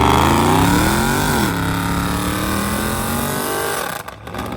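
Car engine revving hard: the pitch climbs for about a second, drops back, holds at a steady high rev, then falls near the end before a short rev up and down.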